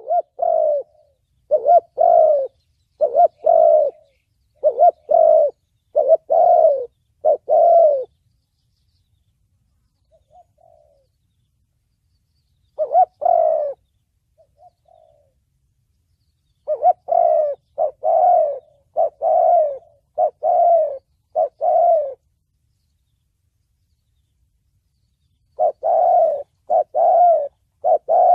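Spotted dove cooing in the deep 'thổ bầu' voice, phrase after phrase of low coos in runs of about six notes, with gaps of a few seconds between runs and a few faint notes in the longest gap.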